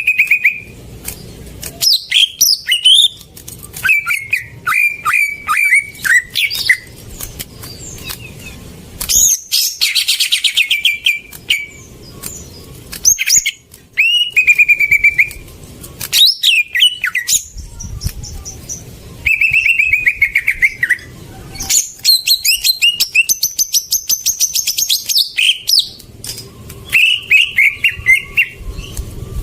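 Green leafbird (cucak ijo) singing a varied song: runs of short repeated chirps, quick rattling trills and sliding whistles, broken by brief pauses.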